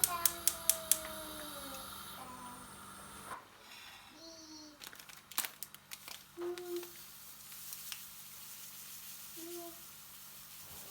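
Kitchen tableware clinking a few times in the first second, each clink ringing briefly, then a quiet room with a few faint short tones and clicks.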